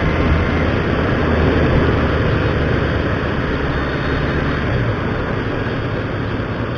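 Motorcycle being ridden along the road: steady engine hum under a constant rush of road and wind noise.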